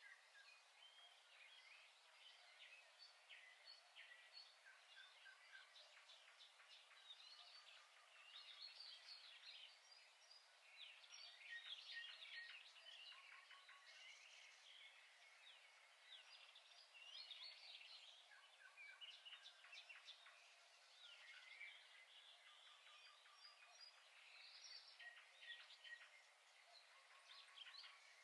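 Faint birdsong: several birds chirping and calling, with short quick runs of repeated notes.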